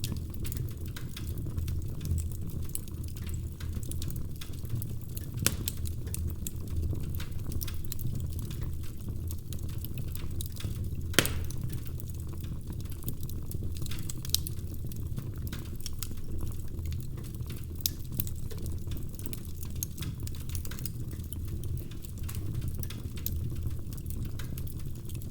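Wood fire burning in a fireplace: a steady low rumble of the flames with continual small crackles, and sharper pops from the burning logs about five, eleven and fourteen seconds in.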